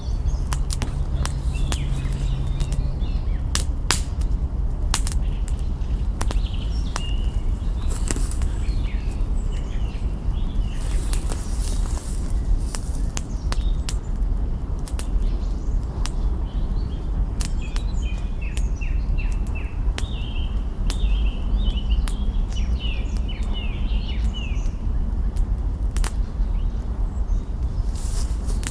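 Wood fire crackling, with sharp irregular snaps and pops from burning branches over a steady low rumble. Small birds chirp and twitter throughout, more busily in the second half.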